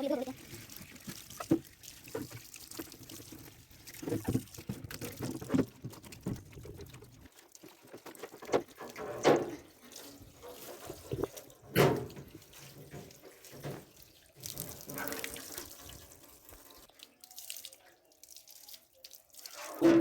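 Tap water running and splashing in a sink while a fridge's vegetable drawer is washed, with irregular knocks and clatters as the drawer is handled. The steady run of water stops about seven seconds in, leaving splashes, drips and knocks.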